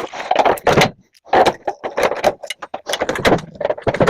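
Metal parts of a microwave oven clattering and clanking in irregular bursts as it is pulled apart by hand for scrap.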